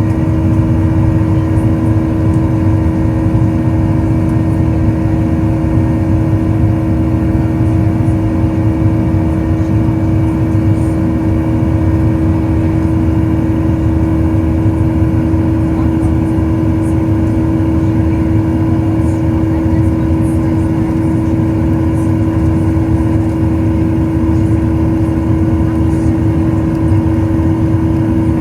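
Cabin noise of a Boeing 737-800: its CFM56-7B jet engines and airflow make a steady drone with a few constant whining tones that never rise or fall.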